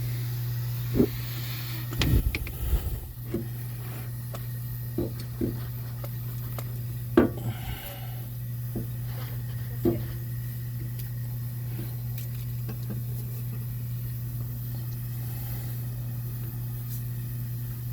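Scattered clinks and knocks of hand tools and metal parts during work on the Honda Odyssey's suspension, while the old rubber bushings are being removed. A steady low hum runs underneath. The knocks fall mostly in the first half, and the sharpest comes about seven seconds in.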